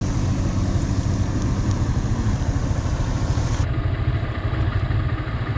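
Small motorcycle engine running with a steady low rumble. About three and a half seconds in, the hiss above it drops away abruptly while the rumble goes on.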